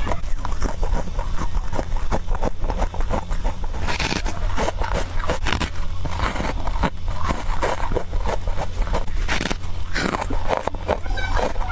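A person biting and chewing freezer frost in quick succession: dense, crisp crunching and crackling with brief louder crunches now and then. A steady low hum runs underneath.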